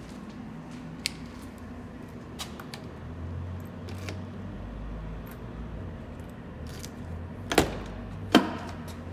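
Mercedes-Benz W124's M104 inline-six engine idling steadily, with a few sharp clicks and two louder knocks with a short ring near the end.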